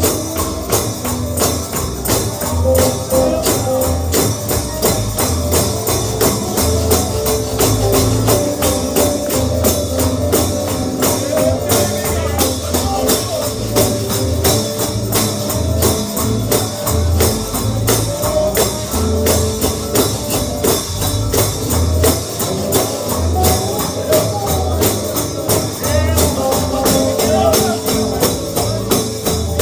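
Uptempo holiness gospel music with a tambourine jingling on every beat over a walking bass line.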